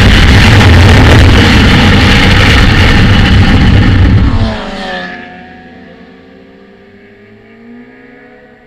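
Loud motorcycle engine and wind noise on a bike-mounted camera at track speed, cutting off abruptly about four and a half seconds in. Afterwards the faint engine notes of other motorcycles rise and fall in pitch.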